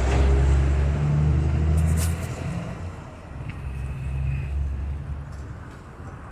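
A motor vehicle's engine running close by, a low rumble that eases off after about two seconds, swells again briefly and then fades away.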